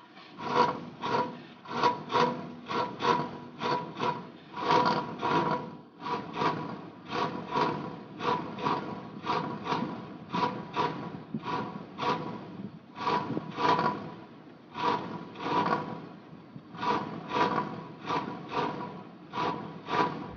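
Repeated rasping strokes, about two or three a second and somewhat uneven, over a faint steady hum.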